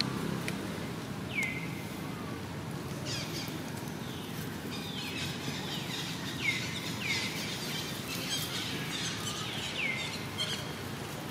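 Birds calling over and over, each call a quick downward-sweeping chirp, a dozen or so scattered through, over a steady low background noise.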